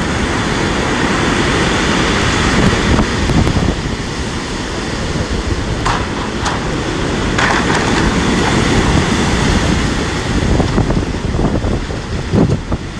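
Strong storm wind buffeting the microphone over the rush of large sea waves breaking against the seafront, with a few brief sharper sounds around the middle and near the end.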